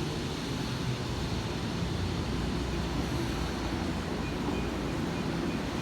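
Steady low rumble of a Tokyo Metro Tozai Line subway train, with faint steady humming tones and no distinct knocks or squeals.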